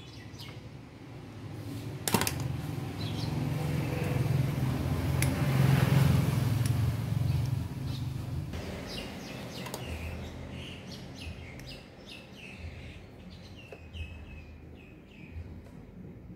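A low rumble that swells over a few seconds and fades away, like a passing motor vehicle, followed by small birds chirping in short repeated calls.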